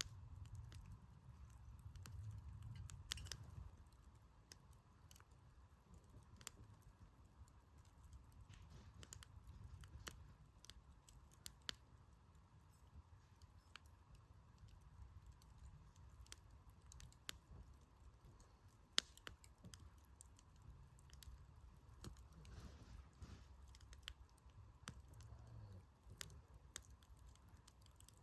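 Wood campfire crackling faintly: scattered sharp pops and snaps, the loudest about 19 seconds in, over a low rumble.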